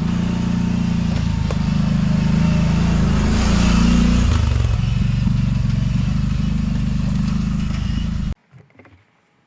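Kawasaki Brute Force 750 ATV's V-twin engine running steadily at idle while stopped on the trail. The sound swells briefly near the middle and cuts off abruptly about eight seconds in.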